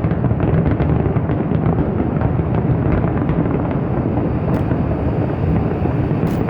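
Fireworks display in a dense, continuous barrage: many overlapping bangs blend into one unbroken din, with small sharp cracks throughout.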